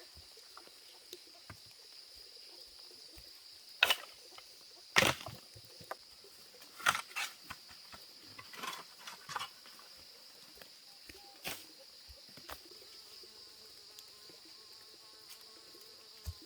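Steady high insect trill, with a handful of loud, sharp knocks at irregular intervals, the loudest about four and five seconds in.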